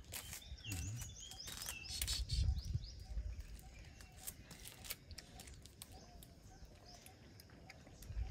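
Small birds chirping in quick, repeated high notes, thickest in the first three seconds and then scattered. A few knocks and thuds come in the first two and a half seconds.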